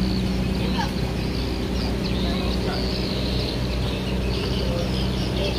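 Speedboat engine running with a steady low drone, with short high bird-like chirps over it.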